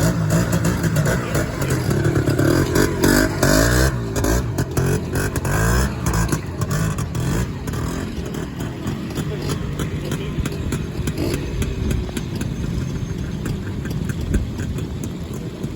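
Classic trials motorcycle engine running and being blipped as the bike is ridden slowly through a trials section, the engine note rising and falling; it is louder over the first half and eases off later.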